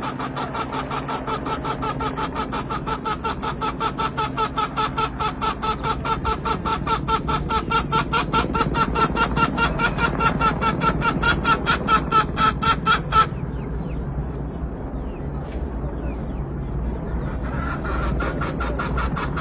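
Helicopter rotor pulsing rapidly and evenly with a whining tone, growing steadily louder, then cutting off abruptly about two-thirds of the way in, leaving a fainter, steady noise.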